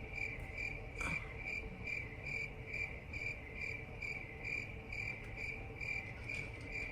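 A cricket chirping steadily, about two and a half short chirps a second, over a faint steady hum.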